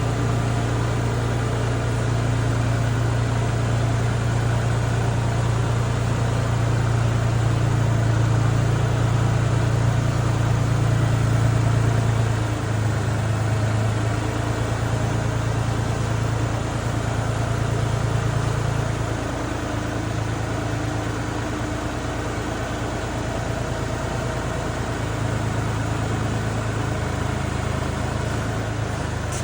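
Kubota tractor engine running steadily with a low hum, its speed dropping slightly about twelve seconds in and shifting again a few seconds later.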